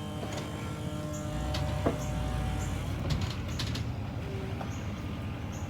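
Tow vehicle's engine idling, then pulling against the hitched trailer in a tug test to check the hitch is latched: the engine note deepens about a second and a half in, with a few sharp knocks around two and three seconds in. Faint high chirps repeat about once a second.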